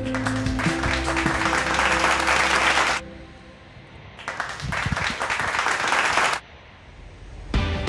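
Applause, a crowd clapping, in two stretches that each cut off abruptly, about three seconds in and again about six and a half seconds in, over the fading end of background music.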